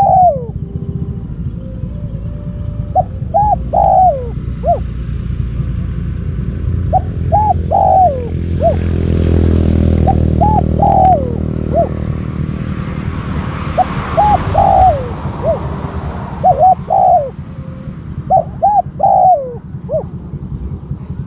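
Spotted dove cooing: about seven short phrases of a few notes each, the last note gliding down, repeated every few seconds over a steady low rumble.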